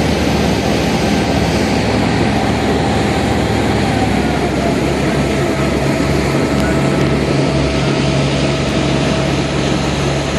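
Tour boat's engine running steadily: a low drone under a broad rush of noise, with a faint whine that dips slightly in pitch about four seconds in.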